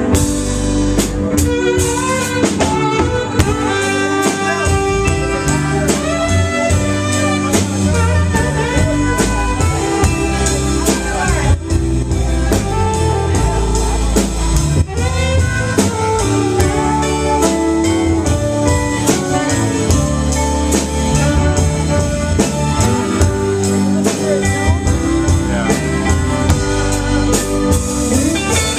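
A live band plays an instrumental break with bass and drum kit, a saxophone taking the solo.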